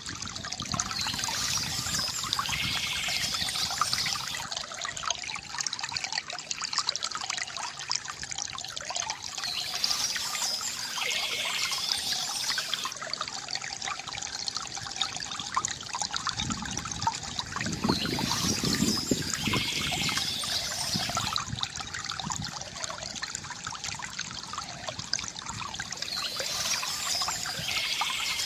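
Water trickling and gurgling steadily from a bamboo fountain, with birds chirping in short spells about every eight to nine seconds.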